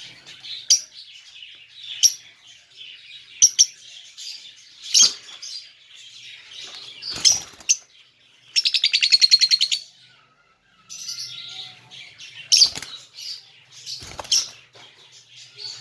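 Small pet parrots chirping and calling in short, sharp high calls every second or two, with one longer, harsh buzzy call lasting about a second a little past the middle.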